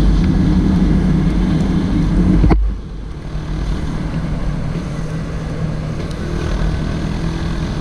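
Honda CG 160 Titan's single-cylinder engine running while riding. The sound drops abruptly about two and a half seconds in and carries on quieter.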